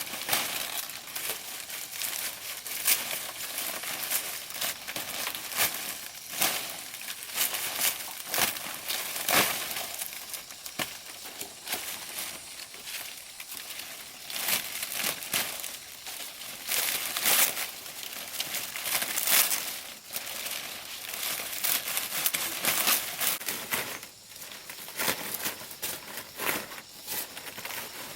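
Dry plant leaves rustling and crackling as they are handled, with many irregular, sharp crackles throughout.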